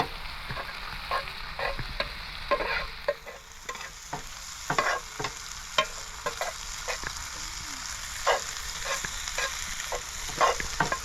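Hand-chopped brisket burger meat sizzling on a griddle, a steady hiss with frequent small pops and crackles.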